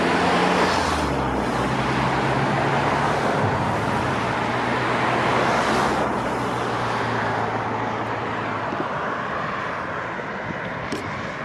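Road traffic passing on the street: steady tyre and engine noise with a low engine hum, swelling as vehicles go by about a second in and again around five or six seconds in.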